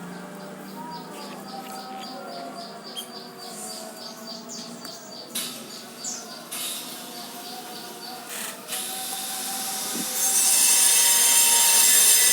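A small bird chirping in a quick, even series, about four short high chirps a second, with a few sharp knocks after it. Near the end a loud, steady rushing noise sets in.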